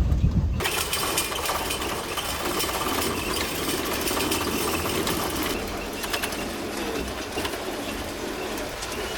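A low rumble cuts off about half a second in. It gives way to a dense, continuous chatter of rapid clicks and calls from many birds.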